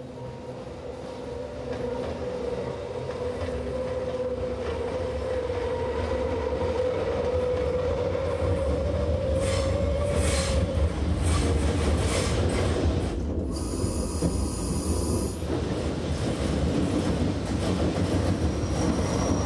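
Rhaetian Railway metre-gauge electric railcar approaching and passing close by on a curve: a rumble that grows over the first seconds, with a steady whine under it, a run of clicks as the wheels go over the rails around ten seconds in, and a high wheel squeal for about two seconds after that.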